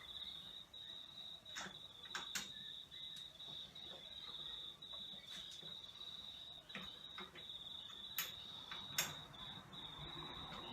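A cricket trilling steadily at a high pitch, with scattered sharp clicks and light knocks from a hand screwdriver working on metal table-saw parts.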